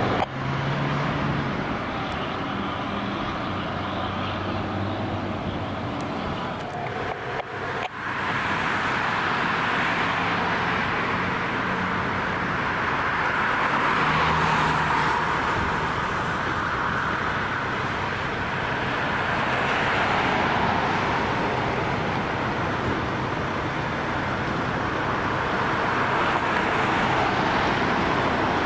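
A motor vehicle driving on the road, with steady engine and tyre noise and a brief dip about eight seconds in.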